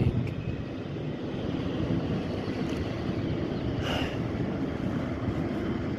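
Steady low engine rumble, with a short hiss about four seconds in.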